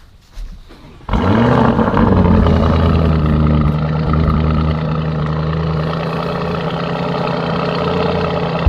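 Car engine starting about a second in: a quick rev flare that rises and falls, then settling into a steady idle.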